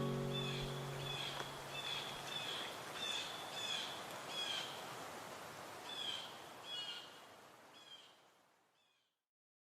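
A bird chirping, short repeated notes about every 0.7 s over a steady hiss of outdoor ambience, with the last notes of soft music dying away at the start; everything fades out near the end.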